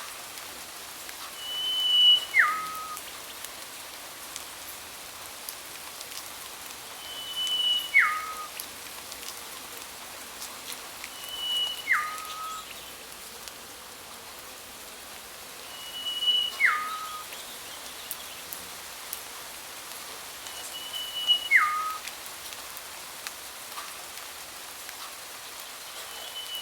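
A bird repeating one whistled call about every four to five seconds: a short high note, then a quick downward slur to a lower note. Under it runs a steady hiss with faint ticks, like light rain.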